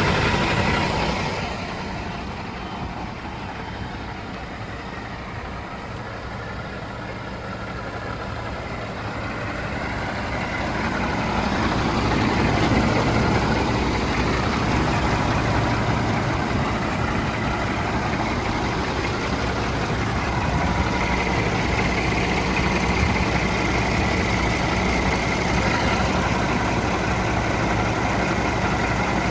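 Scania R 480 truck's straight-six diesel engine running at a steady idle. It drops quieter a second or two in and grows louder again from about a third of the way through.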